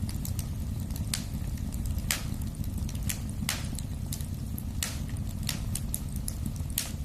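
Wood fire crackling in a fireplace: a steady low rumble of burning with frequent small snaps and a louder sharp pop about once a second.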